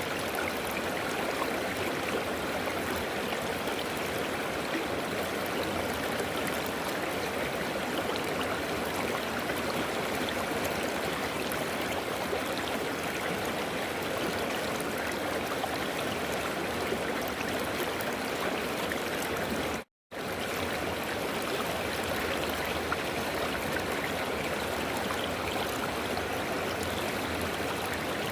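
River water rushing and splashing steadily over rocks, an even, unbroken flow. About two-thirds of the way through the sound cuts out completely for a split second and then resumes.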